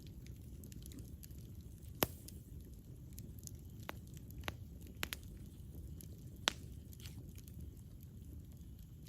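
Campfire burning: a low, steady rumble of flame with about half a dozen sharp pops and crackles of burning wood, the loudest about two seconds in and another past six seconds.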